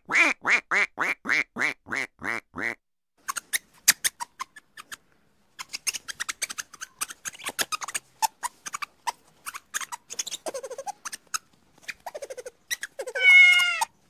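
A duck quacking in a quick run of about nine calls, then a stretch of scattered clicks and scratches, and near the end a short, wavering animal call.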